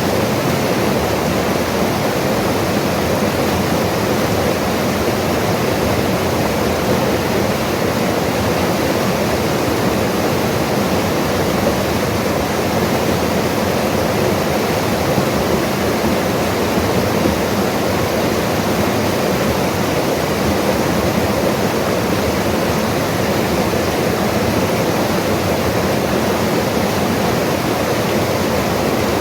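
Mountain river rushing over rocks: a steady, loud rush of water that does not change.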